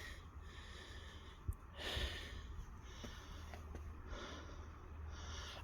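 Faint breathing close to the microphone, in soft breaths at intervals with a louder exhale about two seconds in, over a low steady hum.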